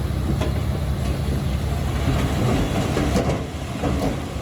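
Diesel engine of a Komatsu D21P crawler bulldozer running under load, with the clanking of its steel tracks and a couple of sharp metallic knocks, one just after the start and one about three seconds in.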